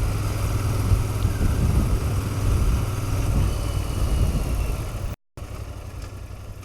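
Royal Enfield Continental GT650's parallel-twin engine running under way, with a steady low drone and wind rush. It drops out for a split second about five seconds in and comes back quieter.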